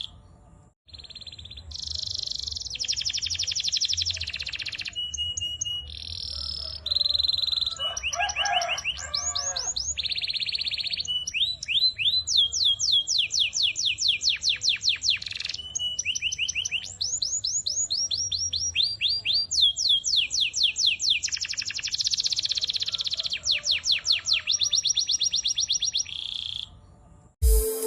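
Domestic canary singing a long run of song: fast trills and rolls of quickly repeated notes in phrases of a second or two, with short pauses between them. The song stops just before the end.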